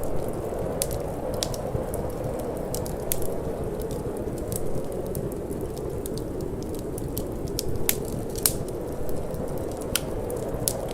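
Wood fire in a fireplace crackling, with frequent sharp, irregular pops and snaps, over a steady low rushing of wind. One pop, a little past the eight-second mark, is louder than the rest.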